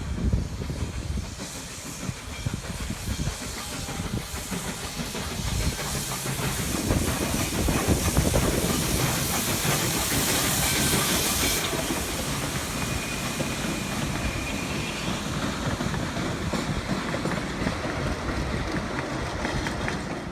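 Duluth & Northeastern 2-8-0 Consolidation steam locomotive No. 28 running with its train, rumbling on the rails. A strong steam hiss swells to the loudest point about halfway through and cuts off suddenly soon after.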